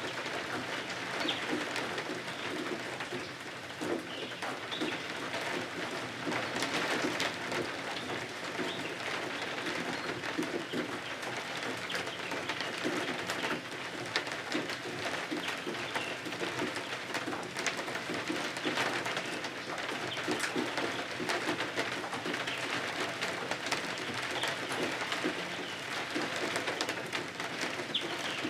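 Steady rain falling outside, an even patter dotted with many small sharp ticks of drops.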